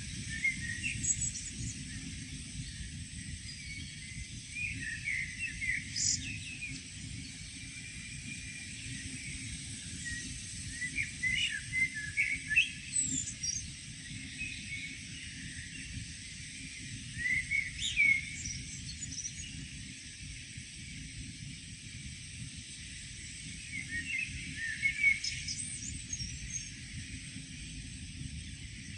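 Songbird singing short, repeated phrases with quick high flourishes, one phrase about every six seconds, over a steady low background rumble.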